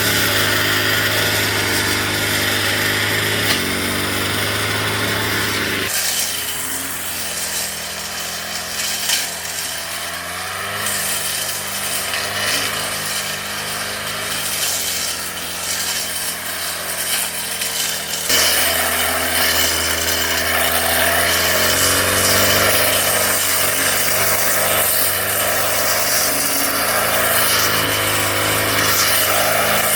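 Brush cutter engine running continuously while cutting weeds. Its note drops and quietens about six seconds in, then rises back to full speed about eighteen seconds in.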